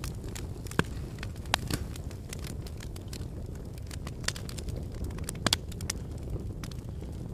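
Wood fire burning in a fireplace: a steady low rumble of flames with irregular sharp crackles and pops, the loudest pops about a second in, at about one and a half seconds and at about five and a half seconds.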